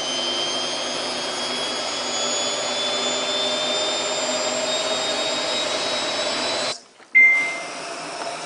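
Samsung WF8804RPA washing machine's drum motor running a service-mode spin test, a steady whine slowly rising in pitch as the drum speeds up. It cuts off abruptly about seven seconds in, and a single short beep follows.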